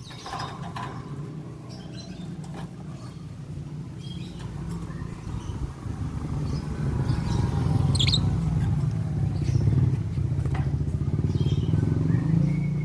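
A low engine drone, like a motorcycle, grows louder over several seconds. Scattered short high chirps and clicks from lovebirds come over it, one sharper chirp about eight seconds in.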